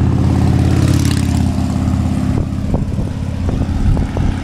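A car passing close by, its engine hum and tyre noise swelling and then easing off about two seconds in, with a few light clicks after.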